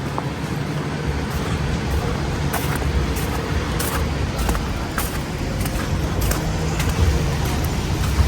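Street traffic: a motor vehicle running close by with a steady low rumble, with a few short clicks over it.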